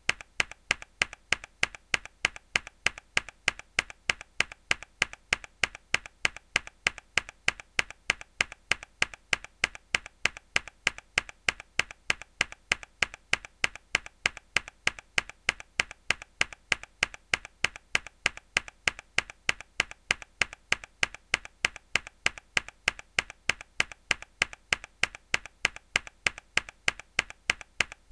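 A single hard key press on a mechanical keyboard, looped so the same sharp click repeats evenly several times a second.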